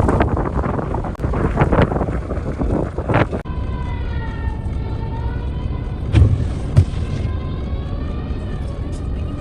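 Strong blizzard wind gusting against the microphone. After a sudden cut about three seconds in, a steady droning tone that wavers slightly in pitch takes over, with two short thumps a little past the middle.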